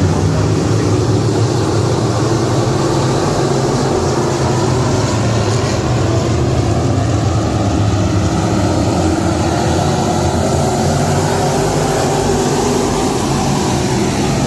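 Race car engines running steadily and loudly, typical of dirt-track modifieds out on the track.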